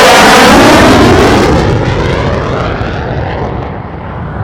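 F-16 fighter jet passing close overhead. It is loudest in the first second, with its pitch dropping as it goes by, then the jet noise fades as it moves away.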